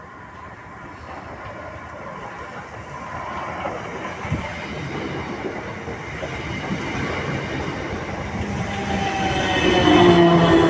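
A train approaching, its rumble growing steadily louder, with a whine from the wheels and running gear joining in over the last two seconds.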